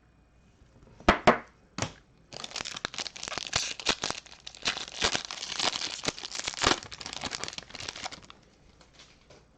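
A trading card pack wrapper being torn open and crinkled: three short sharp rips about a second in, then about six seconds of fast crinkling of the wrapper that dies away near the end.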